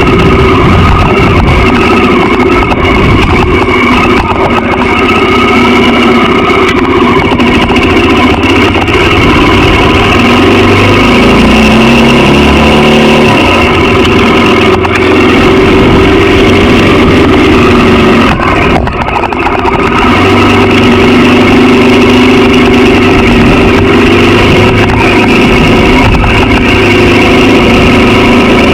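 Honda XR650L's air-cooled single-cylinder four-stroke engine running while the motorcycle is ridden, with the engine note shifting in pitch in steps around the middle and a brief dip in level about two-thirds of the way through.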